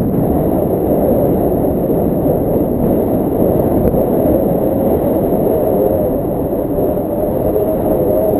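Wind rushing and buffeting over the microphone in paraglider flight, a steady loud low rumble.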